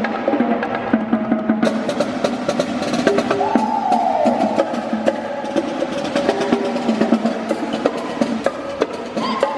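Live show drumming: rapid percussion hits over backing music, with a short falling tone near the middle.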